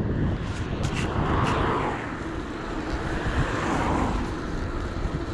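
Wind and road noise from riding an electric bike along a road, a steady rushing rumble that swells and eases twice.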